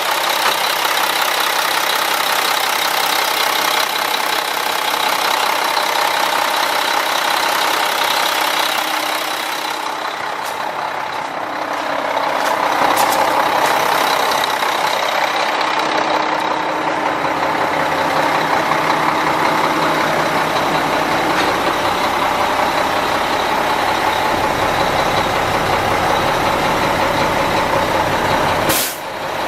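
Mack E7-330 inline-six diesel in a heavy truck, running steadily at idle. It drops slightly about ten seconds in and comes back a little louder, with a short break near the end.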